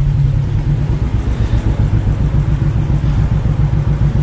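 Royal Enfield Bullet Electra 350's single-cylinder four-stroke engine running steadily at low revs, with a rapid, even low thump.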